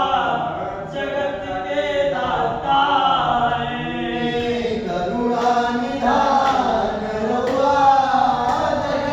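Several voices singing a Hindu devotional bhajan together in long, held, gliding lines, like a chant.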